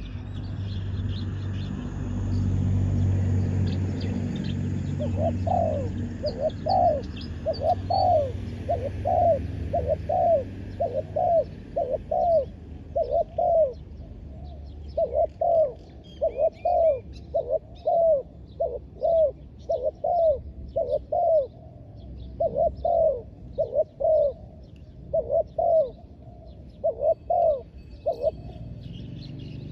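Spotted dove cooing over and over, a long run of short, low coos in phrases, with small birds chirping faintly behind. A low rumble fills the first few seconds before the cooing starts.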